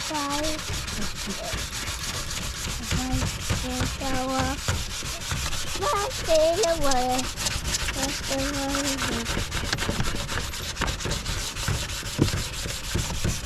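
Sanding of a headlight lens: continuous rough rubbing with rapid, repeated strokes.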